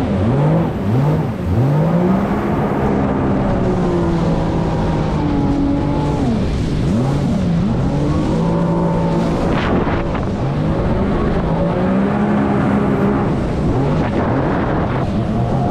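Jet ski engine running under way, revving in quick rising surges at first, then holding a mostly steady pitch with a few dips as the throttle changes.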